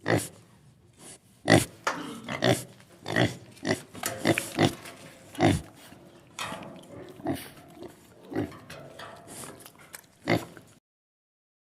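Farm animal calling: a run of short, harsh calls in quick, irregular succession that cuts off suddenly near the end.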